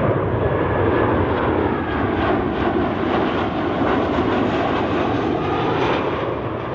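Jet airliner's engines passing close by as it comes in to land: a loud, steady rushing roar with a faint gliding whine, easing slightly near the end.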